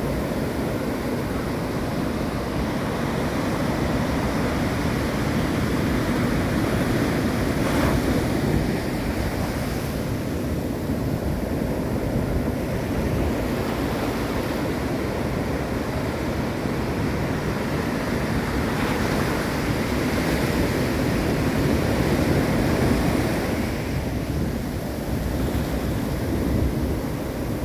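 Ocean surf and wind, with wind buffeting the microphone: a steady rushing that swells as waves come in.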